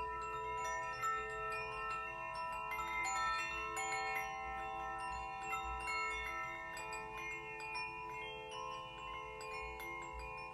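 Metal meditation instruments (chimes and bells) ringing in many overlapping notes, each held for several seconds as it dies away.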